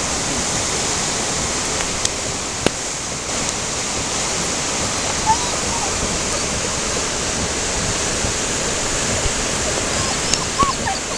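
A river in full flood after rain on snow, rushing with a steady roar. A couple of short clicks break through it.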